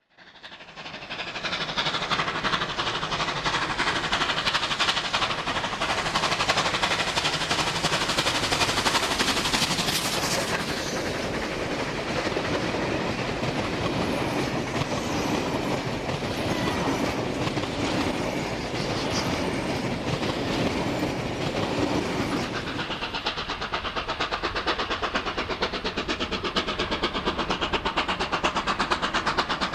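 A NSW C38 class 4-6-2 steam locomotive hauling a passenger train, running with a steady loud rush of exhaust and wheel noise. The sound comes in within the first second and holds.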